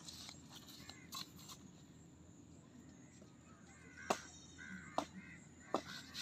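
A bird calling faintly a few times in the second half, mixed with a few light clicks, over a quiet outdoor background.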